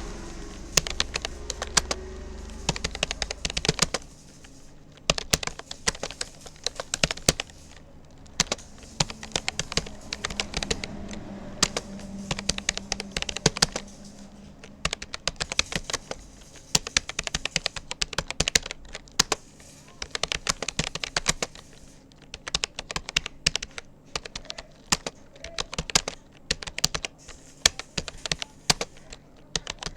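Touch-typing on a Rapoo computer keyboard: rapid, irregular runs of keystroke clicks broken by brief pauses. A low background rumble fades out about four seconds in.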